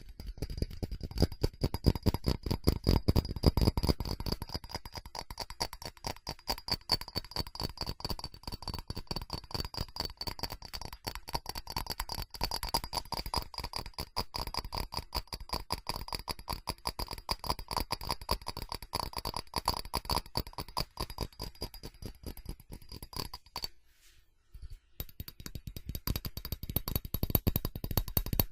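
Rapid tapping on a ceramic object, many taps a second, with a faint ring to the strokes, breaking off for about a second near the end before starting again.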